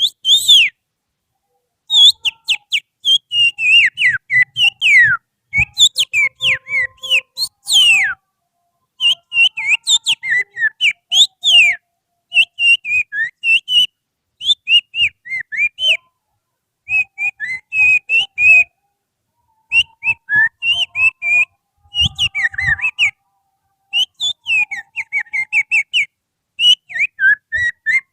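Person whistling through the fingers, imitating the song of an Oriental magpie-robin (kacer) in short runs of quick, sweeping chirpy notes broken by brief pauses.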